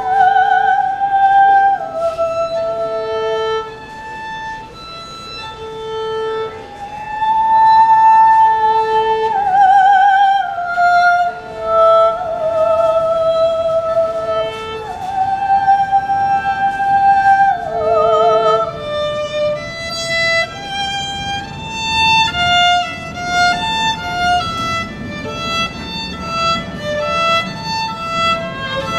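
Solo violin playing a slow melody of long notes with vibrato over a short, lower note repeated about every second and a half. About two-thirds of the way in, it moves into quicker notes.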